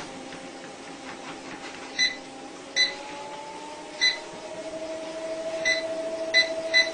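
A steady machine hum whose main tone slowly rises in pitch, with six short electronic beeps over it.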